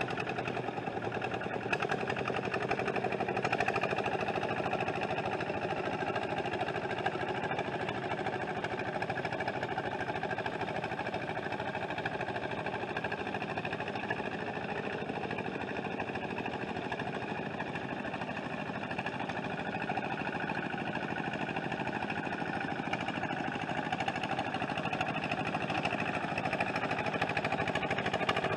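An engine running steadily at an even speed, with a fine rapid pulsing and no change in pitch.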